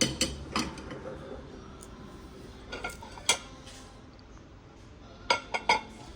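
Dishes and cutlery clinking and knocking: a few sharp clinks at the start, two more around the middle, and a quick run of three near the end.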